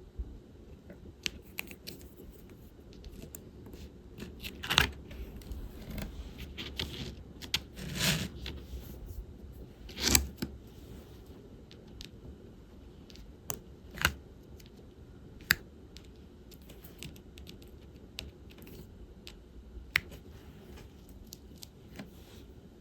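Small scattered plastic clicks and taps from diamond painting work: a drill pen picking up resin drills and pressing them onto the sticky canvas. A few louder, brief rustles come about a third and halfway through.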